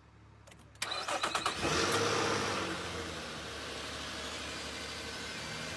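Nissan Pathfinder being jump-started on a flat battery. The starter cranks briefly about a second in, then the engine catches and revs, and it settles into a steady idle.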